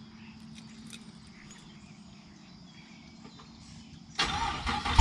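Faint outdoor background with insects chirping for about four seconds, then near the end a car's starter cranks on a cold start and the engine fires as it ends.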